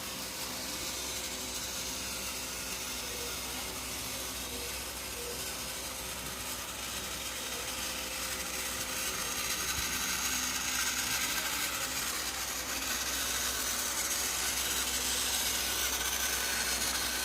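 Battery-powered TrackMaster toy engine running along its plastic track, its small electric motor and gears whirring steadily and growing a little louder.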